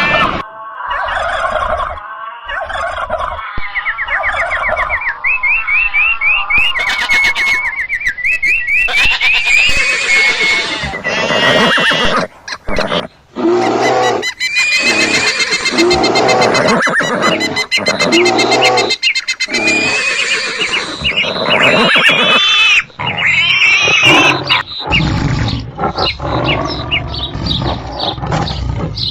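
A dense run of animal call sound effects layered one after another: pitched, wavering cries and rising chirping calls, with brief drops near the middle.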